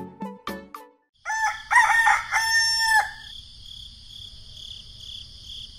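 A rooster crowing once, about a second in, its call lasting under two seconds, followed by a steady high chirring of crickets. The tail of a cow's moo fades out at the very start.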